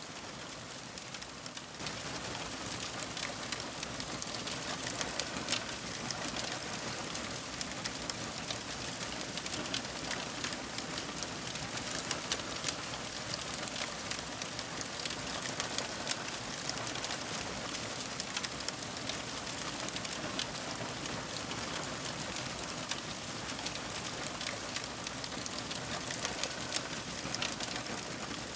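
Wood fire crackling: a steady hiss dotted with frequent small, sharp pops and snaps, stepping up slightly in level about two seconds in.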